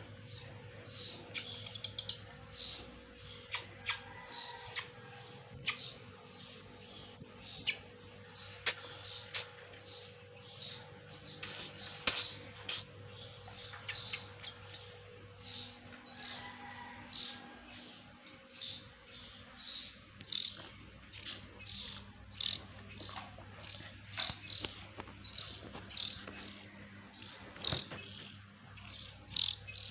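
Oriental magpie-robin (kacer) chicks chirping: a long run of short, high chirps, roughly two a second.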